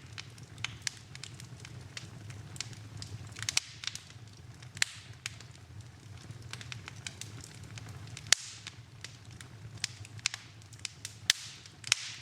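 Wood fire in a fireplace crackling, with irregular snaps and pops, a handful noticeably louder than the rest, over a steady low rumble of the flames.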